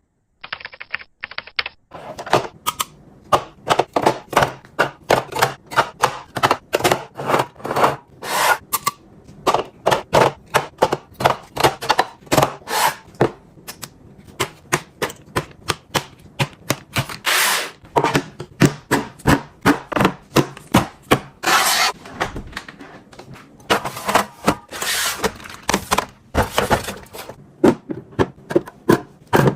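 Plastic storage containers, lids and food packaging clacking and tapping in quick succession as items are handled and put into a refrigerator, with a few longer rustles among the clicks.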